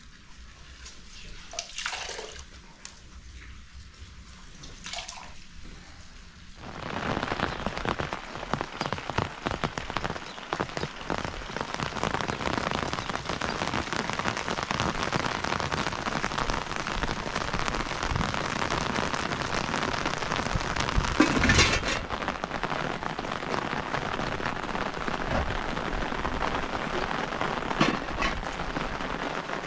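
Rain falling steadily, coming in suddenly about seven seconds in after a quieter stretch, with a brief louder sound about two-thirds of the way through.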